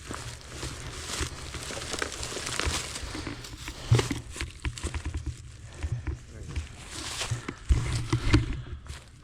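Dry leaf litter and sticks rustling and crackling as cut logs and brush are handled and walked over, with a sharp knock about four seconds in and a few heavy thumps near the end.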